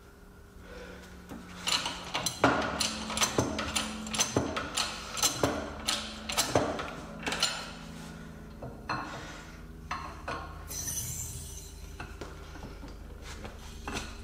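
Steel cups and tools from a press-and-pull sleeve kit clinking and knocking together as they are handled. There is a quick run of sharp clinks from about two seconds in, growing sparser in the second half.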